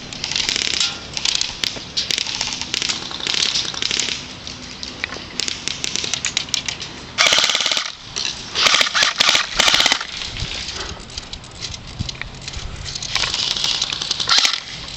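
Airsoft guns firing in rapid bursts of clicks, the loudest bursts a little past halfway, over crunching and rustling.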